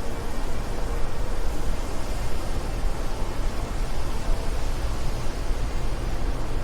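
Steady wind blowing, a continuous rushing noise with a deep rumble underneath and small rises and falls in level.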